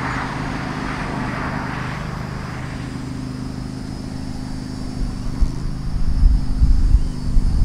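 EMD diesel locomotive engine running steadily with a low, even drone. From about five seconds in, a heavy, uneven low rumble grows much louder.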